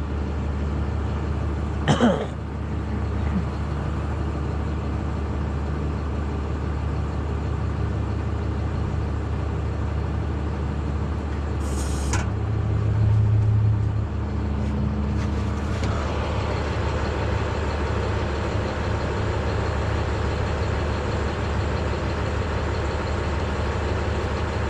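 Service truck's engine running steadily with the PTO engaged to drive the crane, a low continuous hum. A short hiss comes about twelve seconds in, and the engine is slightly louder for a couple of seconds after it.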